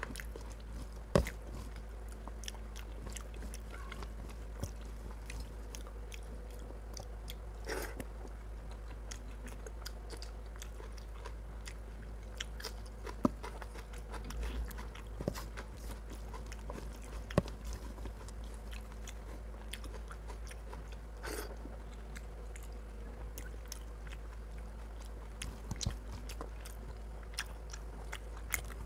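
Close-miked eating of chicken curry and rice by hand: wet chewing and mouth smacking, with fingers squelching through the rice. A few sharp clicks stand out, about a second in and twice near the middle.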